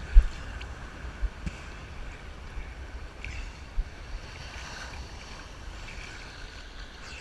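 Ocean surf washing, with strong wind buffeting the microphone. The wind gives a few sudden low thumps, the loudest just after the start.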